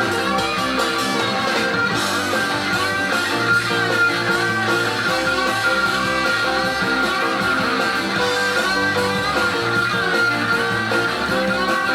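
Southern rock band playing live: a lead electric guitar solos with many bent notes over rhythm guitar, bass and drums, with no singing.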